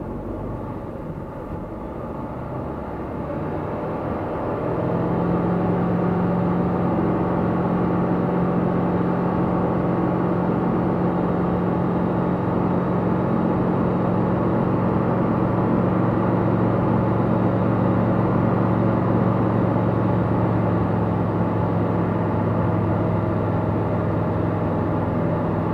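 Tecnam P96 Golf light aircraft's engine running. It grows louder over the first five seconds or so as power comes up, then holds a steady drone.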